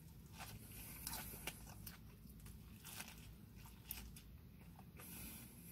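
A person chewing food close to the microphone, with faint crunchy bites and scattered mouth clicks.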